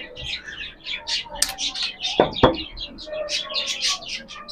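Small cage birds chirping and chattering rapidly and without pause, with two sharp knocks close together a little past two seconds in.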